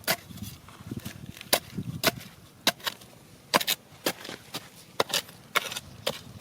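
A hand tool striking hard material while digging, in irregular sharp knocks, a dozen or more, some in quick pairs.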